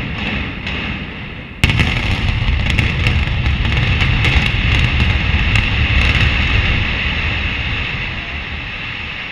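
Building demolition implosion: a few sharp charge cracks, then about a second and a half in a sudden loud boom. A long deep rumble with scattered crackling pops follows as the building collapses, slowly fading toward the end.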